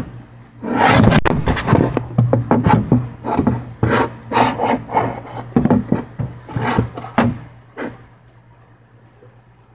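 Loud, irregular rubbing and scraping strokes close to the microphone, stopping about eight seconds in, over a steady low hum.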